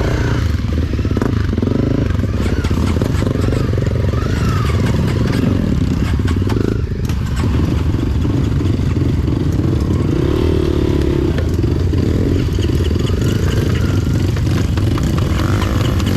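Motorcycle engine running steadily, with light rattling over it.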